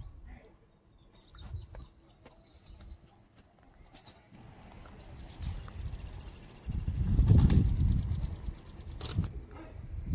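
Small birds chirping in short high calls, then a long, fast, even trill starting about halfway through. Under them a low rumble swells in the middle and is the loudest sound, then fades.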